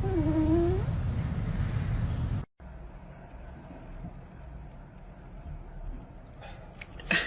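A cat's short meow over a low rumble, then, after an abrupt cut, a cricket chirping in a steady, high, pulsing trill.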